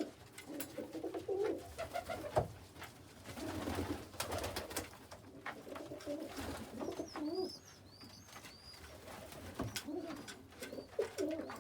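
Domestic pigeons cooing in a loft, with scattered sharp clicks. A run of high, thin squeaks comes in the second half.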